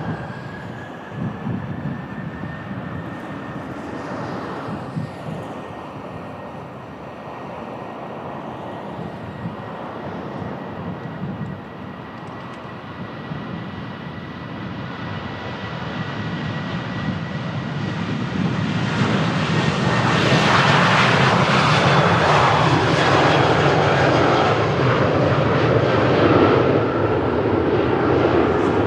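Jet engines of a Southwest Boeing 737 departing, a steady high whine at first, then building over several seconds into a loud, full jet roar that holds near the end. Wind rumbles on the microphone underneath.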